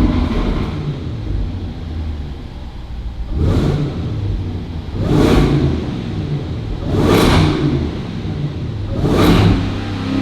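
Land Rover Defender 110's 5.0-liter supercharged V8 being revved four times, about every two seconds, each rev rising and falling back toward idle.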